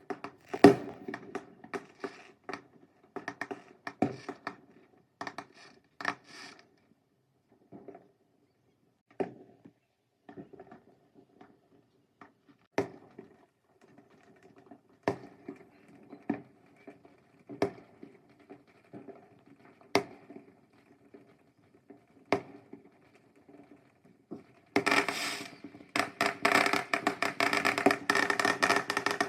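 Fireworks going off: single sharp bangs a second or more apart, then near the end a dense, continuous crackling.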